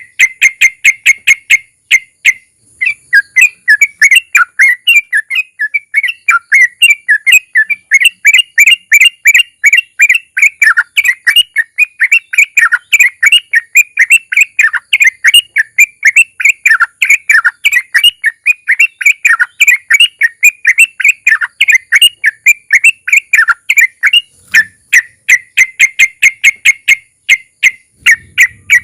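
Yellow-vented bulbul (trucukan) singing a long, rapid series. Quick repeated notes open the song, followed by about twenty seconds of dense, bubbling chatter, and fast repeated notes again near the end.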